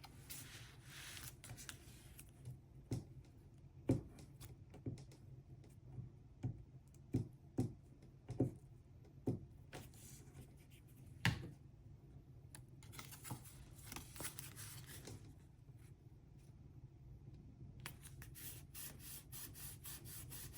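Paper and cardstock being handled and pressed down on a table during gluing: scattered light taps and knocks through the first half, stretches of paper rustling, and a quick run of small clicks near the end.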